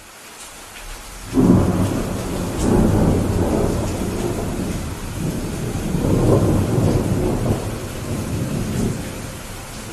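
Thunder rumbling over steady rain: it breaks in suddenly about a second in and rolls on in swells for several seconds before easing off.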